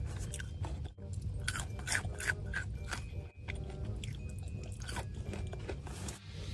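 Close-miked crunching and chewing of a breaded Wingstop chicken tender dipped in ranch: a string of crisp crunches, densest about one and a half to two and a half seconds in, over quiet background music.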